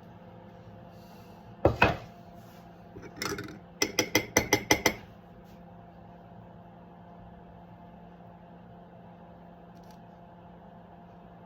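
Kitchen clatter: a sharp double knock, a short rattle, then a quick run of about seven sharp clicks, over a steady appliance hum.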